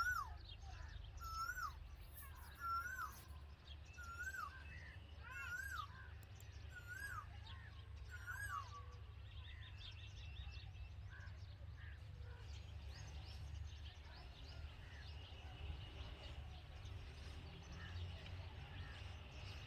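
Red-vented bulbul calling: about seven short, curving call notes, one every second or so, then fainter scattered chirps over a steady low rumble.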